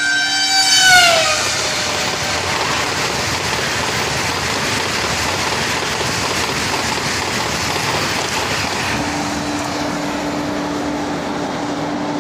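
Train 18's horn sounding as the trainset approaches, its pitch dropping sharply about a second in as the train passes at high speed. The horn gives way to a steady rush of the coaches going by. A low steady hum comes in near the end.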